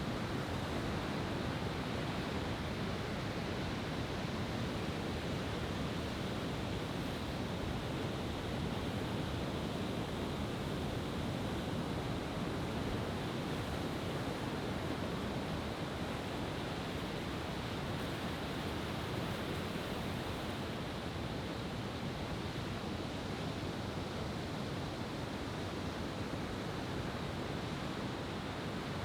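Steady rushing of ocean surf on the beach, with no firework bursts.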